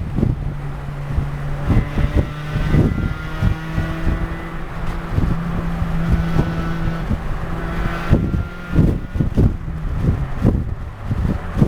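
Honda Civic Si four-cylinder engine pulling at a steady speed through its rusted exhaust, heard from inside the cabin with the windows down. Its drone holds one pitch, then steps slightly higher about two seconds in. Wind buffets the microphone in irregular thumps, heavier near the end.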